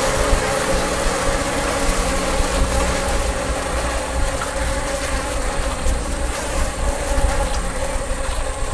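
Mass of honeybees buzzing in a steady, dense hum, with a low rumble underneath.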